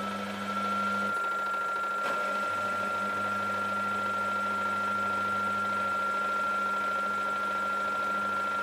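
Samsung 9 kg washing machine running its cycle. The drum motor gives a steady high whine that rises slightly and gets louder about half a second in, then holds, over a low hum.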